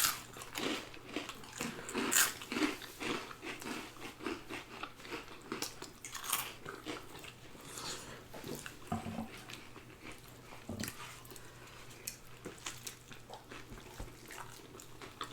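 People chewing and biting food close to the microphone, with irregular crunching and wet mouth clicks.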